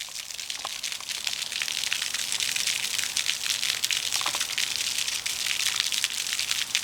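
Floodwater rushing and splashing: a steady, hissy wash of moving water with many small crackling splashes through it.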